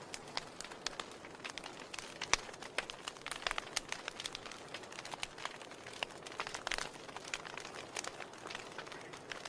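Wood fire crackling in a fireplace: irregular sharp pops and snaps over a soft hiss, the loudest pop a little over two seconds in.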